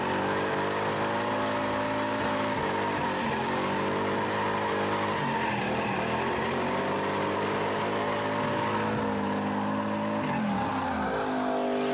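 A car engine held at high revs with its tyres squealing in a sustained slide, as in drifting. The engine pitch wavers up and down and falls away near the end.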